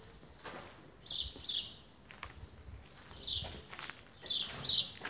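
A small bird chirping in pairs of short high notes, each pair coming about every one to two seconds.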